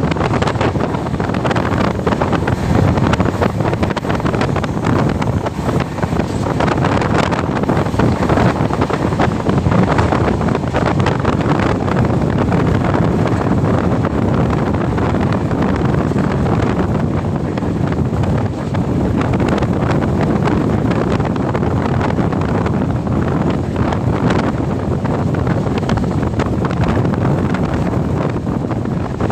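Train running, a steady rushing noise with heavy wind buffeting the microphone.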